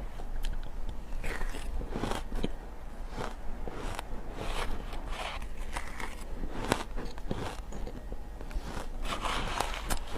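Close-miked bites into ice: a run of sharp, irregular crunches and crackles as the ice is bitten and breaks.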